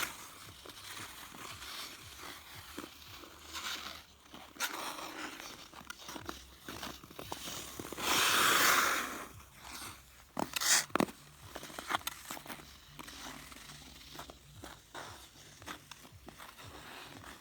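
Ice skate blades scraping and cutting across frozen pond ice in irregular strokes, with one louder hissing scrape lasting about a second past the middle and a few sharp knocks shortly after.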